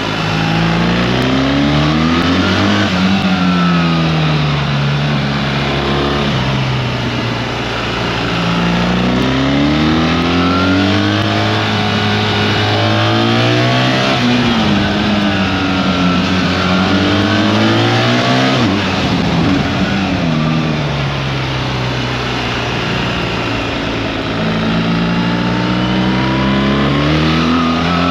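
BMW R 1300 GS boxer-twin engine heard from the rider's seat, revving up under acceleration and dropping back several times as the rider opens and closes the throttle, over steady wind and road noise.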